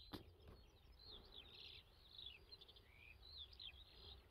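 Faint chirping of small birds, a scattered run of short high calls over near silence.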